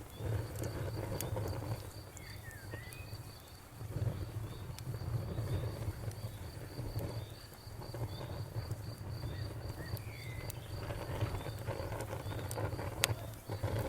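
Crickets chirping in an even, steady rhythm over a crackling bonfire, with scattered sharp pops from the fire and a low rumble of burning wood beneath.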